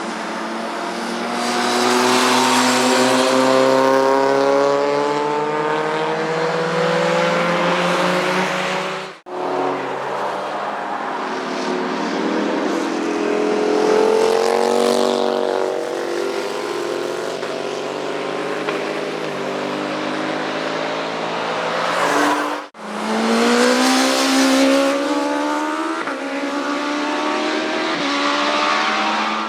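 Motorcycle engines revving up as bikes accelerate past, the pitch rising in long sweeps. The sound breaks off abruptly about a third of the way in and again about three quarters through, where one clip cuts to the next.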